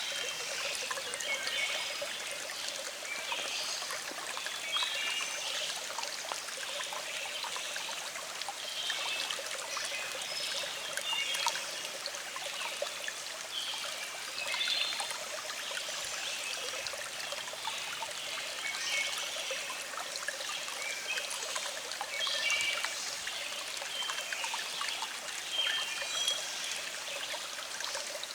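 A small stream flowing and trickling steadily, with birds singing in the background: short, high chirps come again and again.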